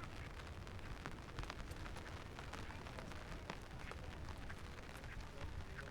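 Rain falling steadily, with many small irregular drop ticks over a low, continuous rumble.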